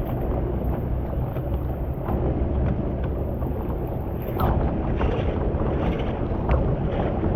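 Steady rush of floodwater draining away, heavy in the low end, with wind buffeting the microphone and a few faint knocks.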